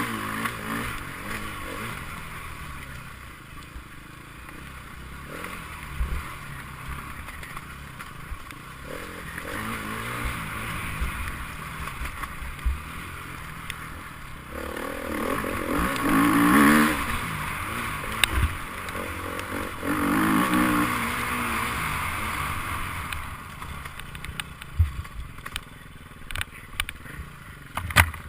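Enduro motorcycle engine running, its pitch rising and falling as it revs, loudest a little past the middle and again a few seconds later.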